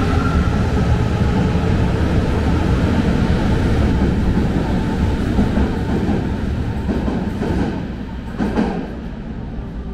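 Berlin S-Bahn class 480 electric train pulling out of a tiled underground station, its rumble on the rails fading as it goes into the tunnel. There is a short burst of wheel noise about eight and a half seconds in.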